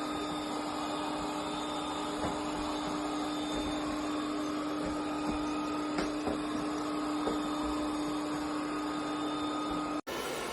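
Robot vacuum cleaner's motor running with a steady hum and whine, a few faint clicks over it; it cuts off suddenly near the end, leaving a hiss.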